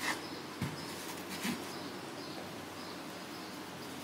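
A few soft rustles and light taps as dough is handled in a cloth-lined proofing basket, in the first second and a half, then only faint steady room hiss.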